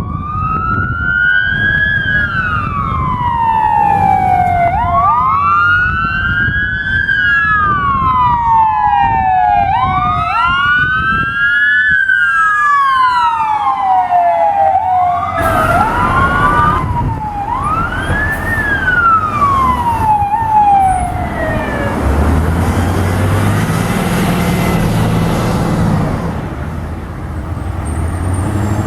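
Fire truck siren wailing, its pitch rising and falling about every five seconds, with a second siren sweeping out of step over it. About halfway through the siren gives way to a rush of road noise and the low rumble of a heavy truck engine going by.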